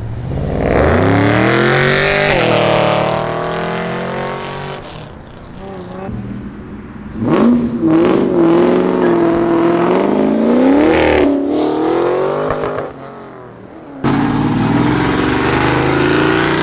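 A car engine being revved in three goes. The first climbs in pitch and holds for a few seconds before falling away. The second and third start suddenly and are held at high revs with the pitch wavering up and down.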